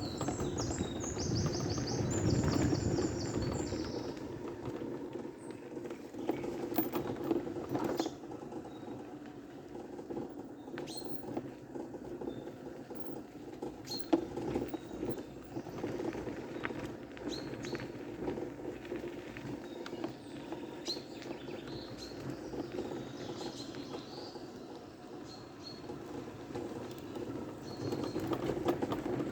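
River water flowing and rushing steadily, with small splashes and clicks throughout; birds chirp with quick repeated high notes in the first few seconds, and a few faint calls follow later.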